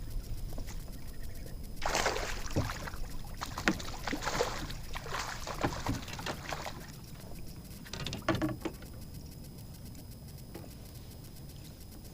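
Splashing and knocking on a fishing kayak, in irregular bursts mixed with a few sharp clicks. The bursts are heaviest from about two to seven seconds in, with a shorter one near eight seconds.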